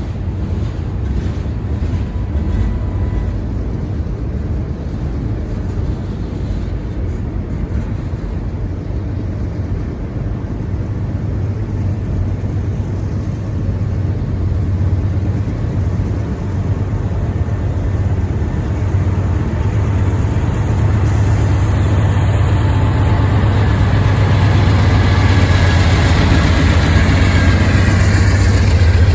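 Freight train rolling past with a steady low rumble of wheels on rail, growing louder over the last several seconds as a higher grinding ring joins in.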